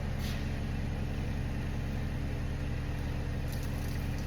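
Steady low machine hum, with brief swishes of a terry cloth rubbing water off a wet-sanded tractor part, once just after the start and again near the end.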